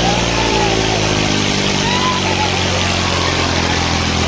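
Diesel tractor engine running steadily; its pitch eases down slightly in the first second, then holds.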